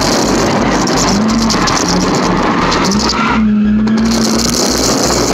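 Nissan 350Z's V6 engine running hard under throttle, heard from inside the cabin; its pitch rises a little after three seconds in and then holds steady, over a constant rushing noise.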